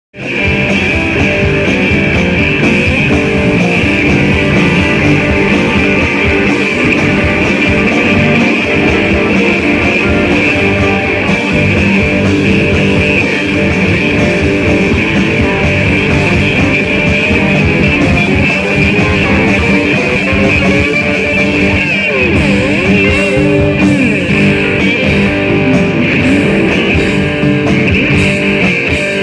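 Live rock band playing, with electric guitar in front over a steady rhythm section; the guitar bends notes about two-thirds of the way through.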